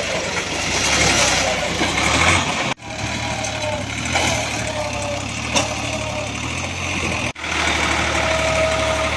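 Tractor engine running steadily, with a wavering mid-pitched whine above the low hum. The sound drops out sharply twice, about three seconds in and again about seven seconds in.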